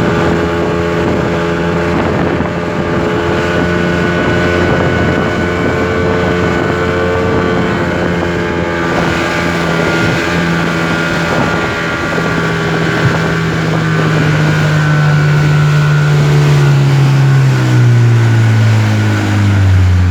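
Speedboat engine running at a steady speed, with wind on the microphone. About two-thirds of the way in, its pitch starts falling steadily as the engine slows.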